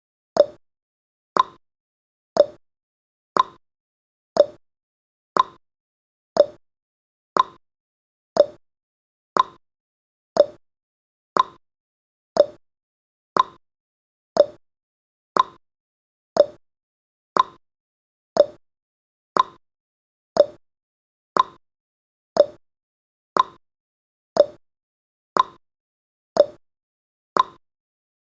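Countdown timer's ticking sound effect: a short sharp click pair once every second, a higher click followed closely by a lower one, keeping an even beat.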